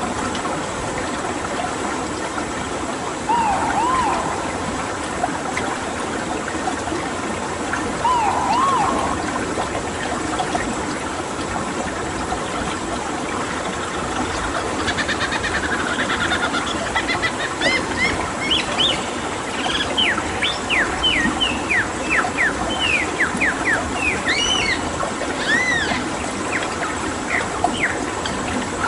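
Birds calling over steadily running water: two arched, mid-pitched calls in the first ten seconds, then from about halfway a rapid string of high whistled notes.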